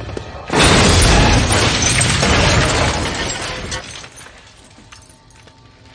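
Truck explosion as mixed for a TV drama: a sudden blast about half a second in, then a loud rush of crackling and breaking debris that dies away over about three seconds.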